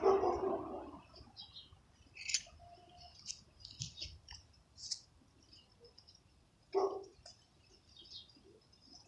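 Small birds chirping: a scattered series of short, high chirps. A louder noise fades out during the first second, and another brief noise comes about seven seconds in.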